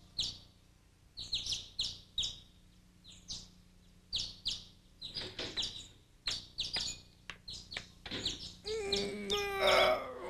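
Small birds chirping: short, sharp, downward-sliding chirps in irregular clusters. Near the end a drawn-out stretching groan joins in.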